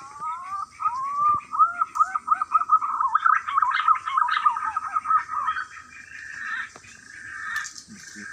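A bird singing: a run of quick rising-and-falling notes that come faster and faster into a rapid chatter, then fade into a softer, rougher trill.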